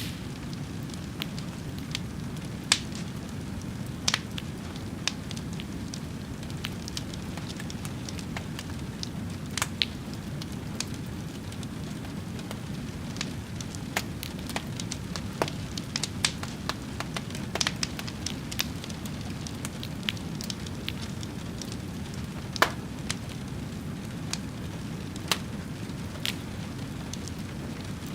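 Wood fire crackling: many sharp, irregular pops and snaps over a steady low rushing of the flames.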